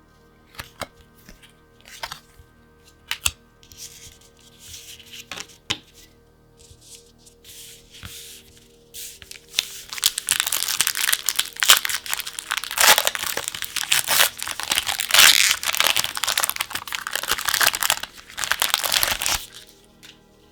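Packaging of a pack of trading-card sleeves being handled, with a few light clicks and short rustles, then torn open and crinkled loudly for about ten seconds, stopping about a second before the end. Faint background music underneath.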